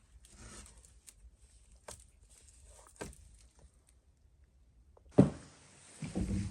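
Handling noises: scattered light clicks and rustles, then a loud knock about five seconds in and a few more knocks near the end.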